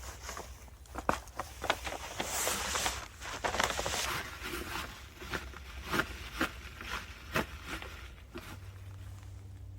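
Camping gear being handled and set down: rustling of fabric and bags with a run of light knocks and clicks, going quieter about eight seconds in.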